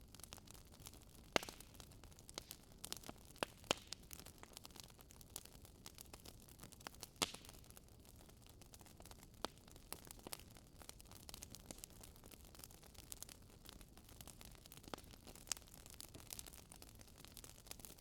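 A Swedish torch log burning: faint crackling of burning wood, irregular pops over a low hiss, the sharpest about a second and a half and seven seconds in.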